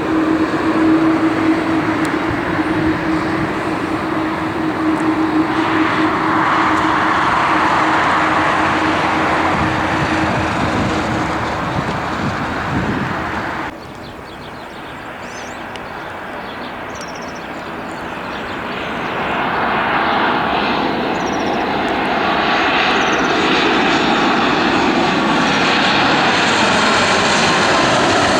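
Airliner engine noise: a steady roar with a held low hum, which cuts off abruptly about halfway through into a quieter engine sound that swells louder again as another aircraft draws closer.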